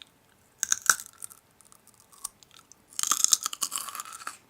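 Crisp food being bitten and crunched close to the microphone: a short crunchy bite under a second in, then a longer dense run of crunching from about three seconds in.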